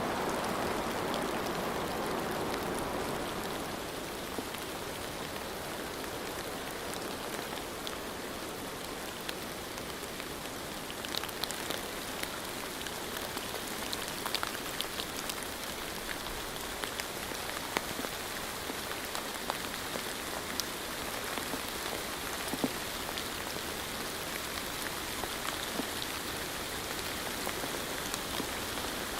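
Steady rainfall as a continuous hiss, with scattered single drops ticking close by. A fuller rushing layer eases off over the first few seconds.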